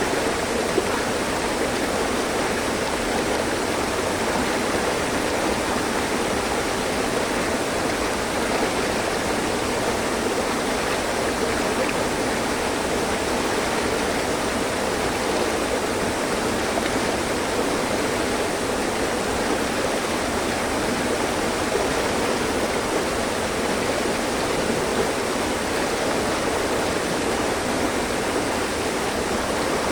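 Mountain stream rushing over rocks: a steady, continuous burble and hiss of flowing water.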